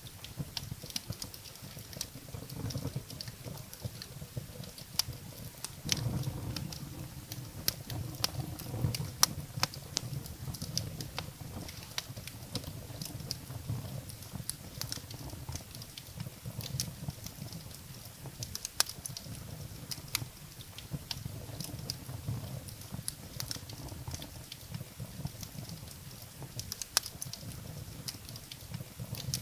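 Wood fire in a fireplace crackling: irregular sharp pops and snaps of burning firewood over a steady low rumble of the flames.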